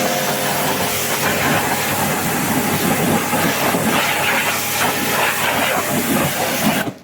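Pressure washer running and spraying water: a loud steady hiss over the machine's hum, cutting off suddenly near the end.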